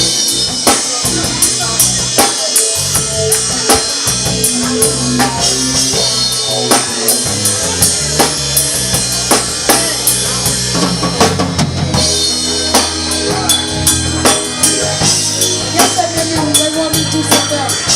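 Live band music: a drum kit keeps a steady beat with snare and bass drum under a bass line and held chords.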